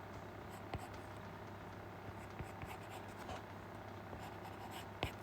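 Faint scratching and tapping of drawing strokes as wings are sketched, over a steady low hum.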